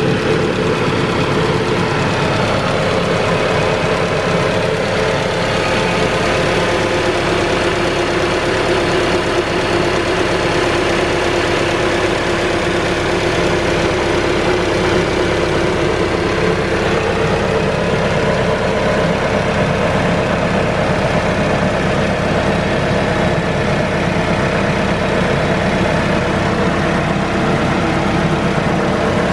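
2015 Dodge Dart's 2.4-liter four-cylinder engine running steadily, with no change in speed.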